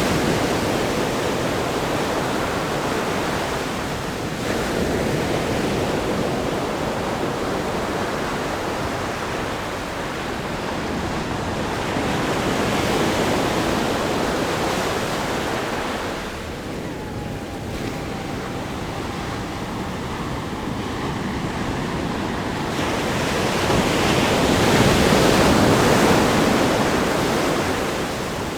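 Ocean surf breaking on a rock groin and sandy beach: a continuous wash of breaking waves that swells and eases every several seconds, with the biggest surge near the end.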